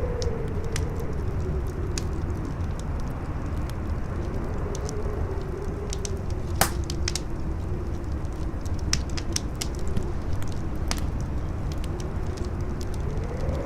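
Campfire crackling with irregular sharp pops, the loudest about six and a half seconds in, over a strong wind that rumbles low and howls with a slowly wavering moan.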